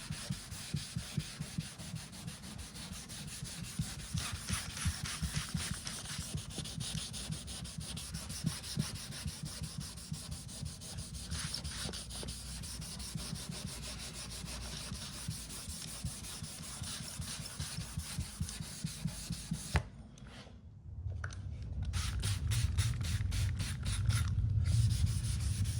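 Hand wet-sanding of a guide-coated aluminium car panel with 800-grit paper on a rubber block: quick back-and-forth rubbing strokes. The sanding stops briefly about twenty seconds in, then resumes louder and lower.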